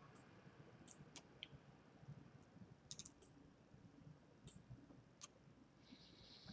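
Near silence: faint room tone with a handful of faint, scattered high clicks.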